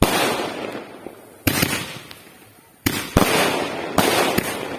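A 30-shot fireworks cake firing shot after shot: about six sharp bangs, roughly a second apart and some in quick pairs, each trailing off in a fading hiss and crackle.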